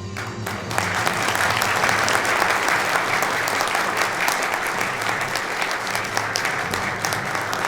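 Audience applauding, starting just under a second in and keeping up steadily, with soft background music underneath.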